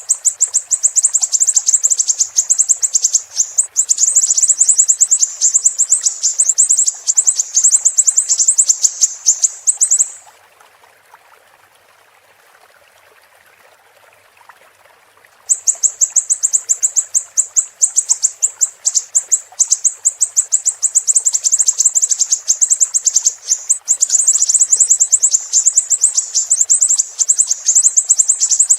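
A siri-siri songbird singing a long, rapid run of high-pitched chirps. It breaks off for about five seconds partway through and then starts again. A faint steady hiss of running water sits underneath.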